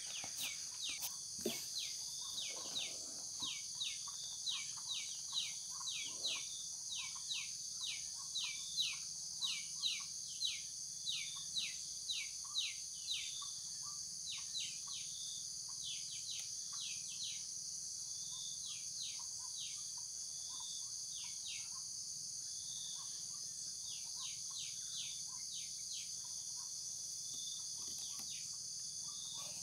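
A bird repeating short whistled notes that each slide downward, about two a second, thinning out after about halfway and stopping near the end. Behind it runs a steady high-pitched drone of insects.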